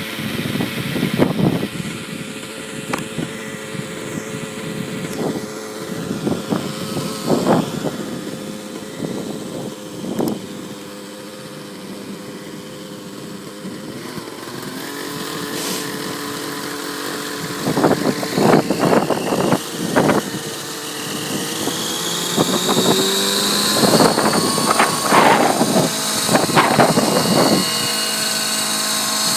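Nitro engine and rotor of a T-REX 700 nitro RC helicopter running, its pitch climbing steadily from about halfway as the head speed comes up. Irregular loud rushes of strong wind buffet the microphone throughout.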